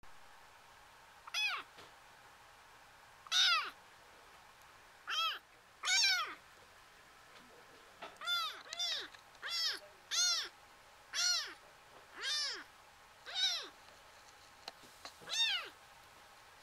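A kitten meowing over and over: about a dozen short, high-pitched mews a second or two apart, each rising and then falling in pitch.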